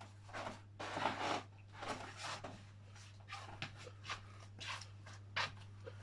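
Faint, irregular rustling and shuffling handling noises, each lasting under half a second, over a steady low hum.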